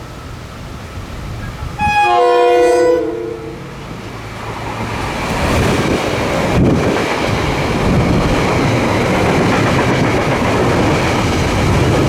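A passing train sounds one short multi-note horn blast about two seconds in, then its rumble and wheel noise builds and runs on as it goes by.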